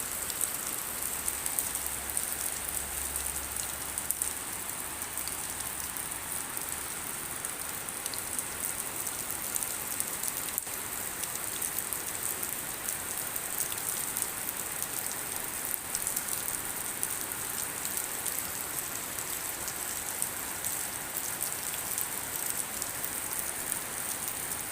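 Steady rain falling, with dense patter of drops hitting surfaces.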